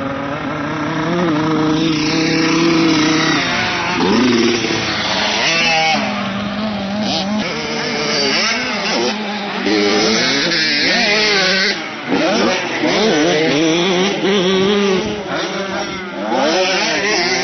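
Several motocross motorcycles riding a track, their engines overlapping and revving up and down repeatedly as they accelerate and shift.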